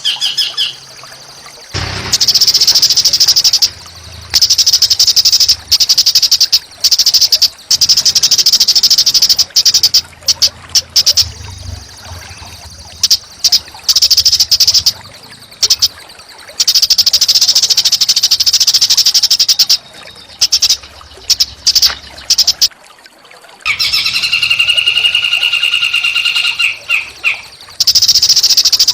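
Small songbird giving loud, harsh, rapid chattering calls in long bursts of a few seconds each, with short pauses between; late on come several clear whistled notes held on one pitch. This is recorded bird song of the harsh, dense kind played as masteran to train caged songbirds.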